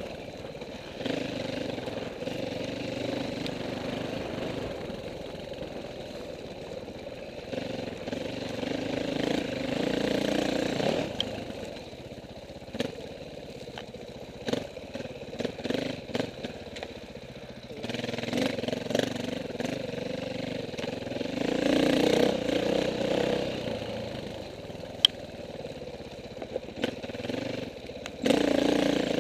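KTM 450 four-stroke single-cylinder dirt bike engine running on the trail, rising and falling with the throttle, with a few sharp knocks and clatters along the way.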